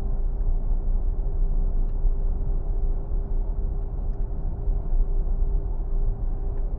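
Car cabin noise at highway speed: a steady low rumble of road and wind noise with a faint constant hum.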